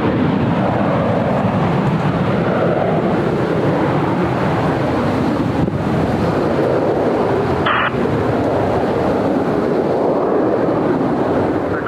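Jet airliner's engines passing, a loud steady rushing noise whose pitch slowly sweeps up and down.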